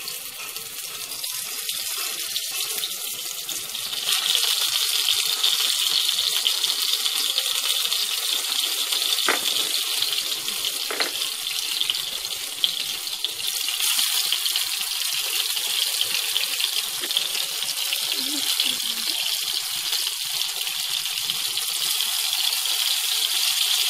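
Skewered pineapple pieces sizzling in hot oil in a frying pan: a steady hiss that grows louder about four seconds in.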